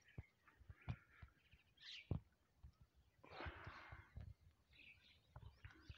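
Near silence: faint outdoor ambience with a few soft ticks and a faint bird chirp about two seconds in.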